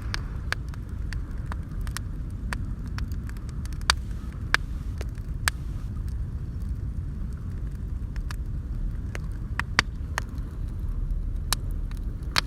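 Wood bonfire crackling, with sharp irregular pops every second or so over a steady low rumble.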